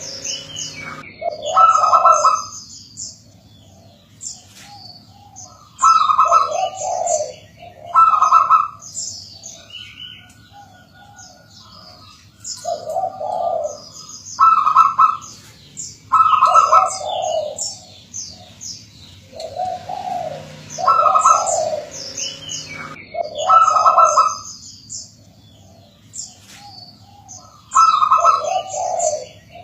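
Zebra dove (perkutut) cooing: short phrases of a few loud, mellow notes, repeated every few seconds, over continuous high, rapid bird chirping.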